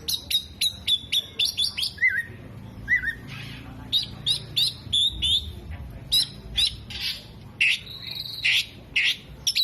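Oriental magpie-robin (kacer) singing a fast, varied song of sharp chirps, quick rising and falling whistles and short buzzy notes, a song laced with mimicked calls of other birds such as sunbirds and lovebirds.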